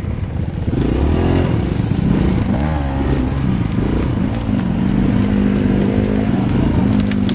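Dirt bike engine running at low speed, its pitch rising and falling with the throttle several times, then holding steady for the last couple of seconds.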